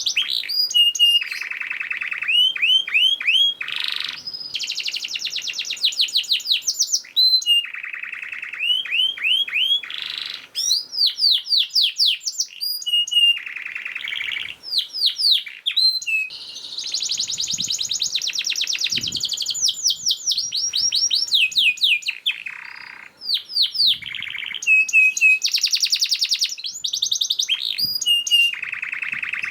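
Domestic canary singing a fast, dense song: rapid trills and runs of quickly repeated rising and falling notes, one phrase after another with hardly a pause.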